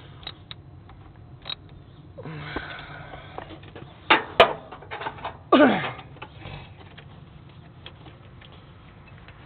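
Irregular light clicks and clinks of hand tools on metal parts of the engine, with a few louder short sounds about four to six seconds in, one of them falling in pitch like a sniff.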